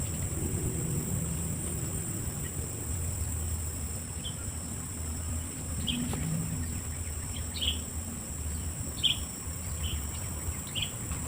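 Outdoor wetland ambience: a steady high hum of insects with short, high bird chirps every second or two from about four seconds in, over a low rumble.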